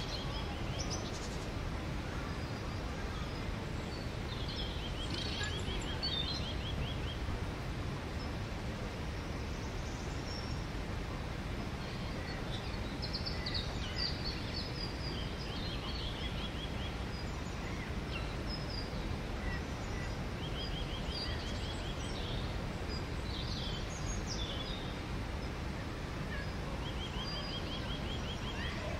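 Songbirds calling over a steady low background rumble: a short, even trill of rapid notes at one pitch, repeated about every seven seconds, with scattered higher chirps between.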